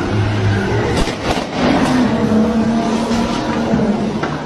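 A car engine revving hard under load, with a few sharp knocks about one to two seconds in as one car rams and shoves another.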